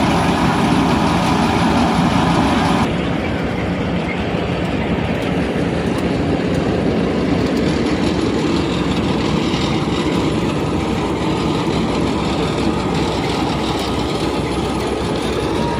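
Fiat 480 tractor's diesel engine running steadily while it powers a thresher machine, a continuous loud mechanical drone. About three seconds in, the sound changes abruptly and loses some of its hiss.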